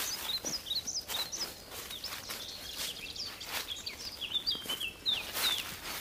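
Small birds giving many short, high chirps, over footsteps on dry fallen leaves.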